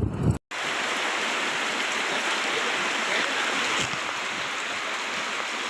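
Heavy rain falling, a steady even hiss that begins about half a second in after a brief dropout.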